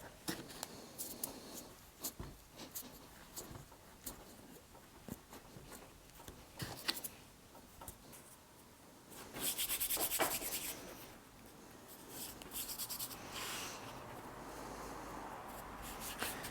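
Fingers pressing and rubbing compo into a mould: faint rubbing and small clicks, with a stretch of quick, even rubbing strokes about ten seconds in.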